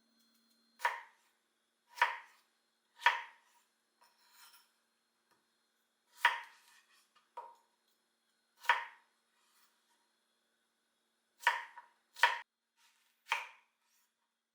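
Knife chopping on a cutting board: about nine sharp, separate strokes at an unhurried, uneven pace.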